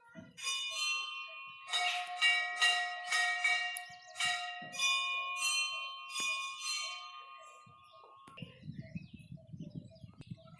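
Several bells struck in quick succession, about two strikes a second, each leaving long overlapping ringing tones at a few different pitches. The ringing stops about eight seconds in and gives way to a low rumbling noise.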